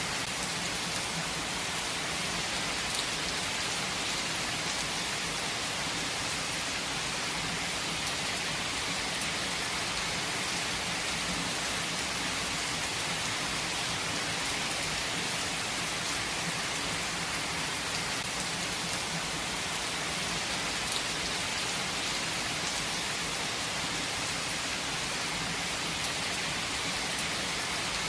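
Steady rain falling, an even hiss with scattered drops ticking on surfaces, without a break.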